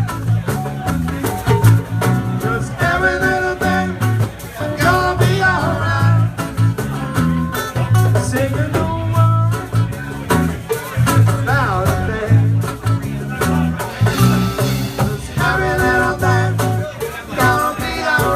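Live band playing a reggae-style groove with electric guitar, bass and drums: a steady repeating bass line under a bending melodic lead.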